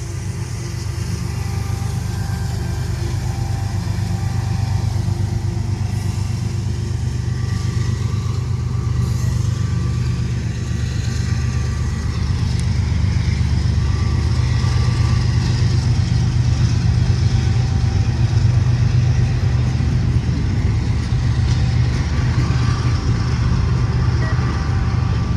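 Low, steady engine rumble that grows slowly louder.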